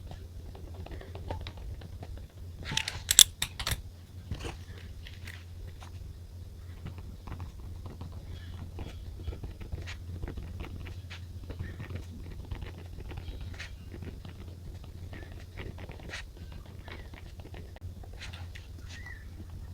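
Journaling sounds: stationery handled on a desk, with a quick run of sharp clicks about three seconds in, then light scattered taps and rustles, over a low steady hum.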